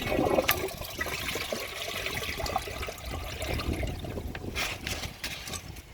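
Vortens Vienna toilet flushing: a click or two at the start, then water rushing and trickling steadily through the bowl, easing near the end.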